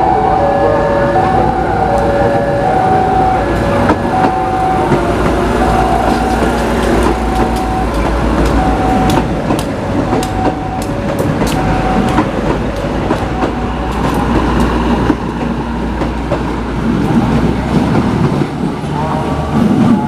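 Diesel train at a station: a steady low rumble, with sharp metallic clacks of wheels over rail joints partway through, while a two-note signal tone repeats about once a second and fades away.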